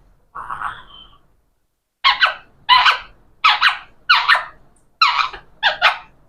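A pet talking parrot calling: one short call near the start, then six quick, pitched calls about two-thirds of a second apart.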